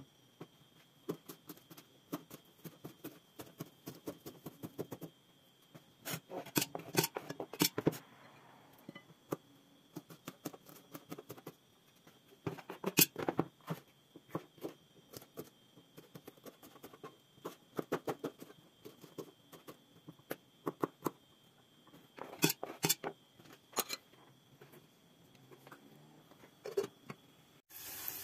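Handling sounds in a kitchen: bursts of small clicks, taps and knocks from objects being handled, with pauses between them. Near the very end a steady sizzle of frying starts.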